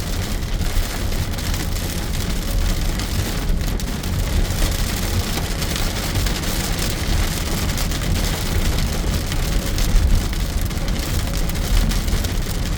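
Heavy rain hitting a moving car's roof and windshield, heard from inside the cabin over a steady low road rumble.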